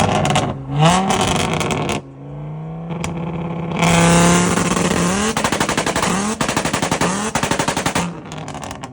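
A car engine revved hard, then held at a fixed speed against a two-step launch limiter. From about four seconds in it fires a rapid string of exhaust pops and bangs.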